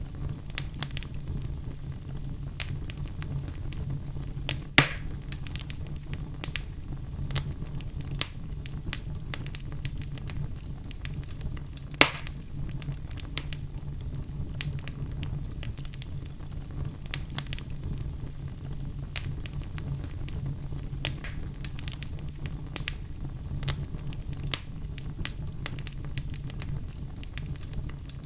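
Log fire burning in a fireplace: a steady low rumble of flames with frequent small crackles from the burning wood. Two louder pops stand out, about five seconds in and again about twelve seconds in.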